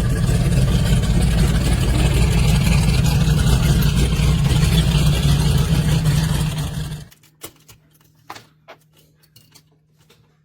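A 1932 Ford street rod's engine running loudly, then shut off about seven seconds in. A few scattered clicks and knocks follow.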